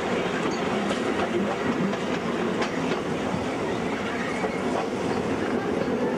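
Steam-hauled train heard from aboard, climbing a steep 1 in 20 grade: a steady running rumble with scattered clicks from the wheels on the rails.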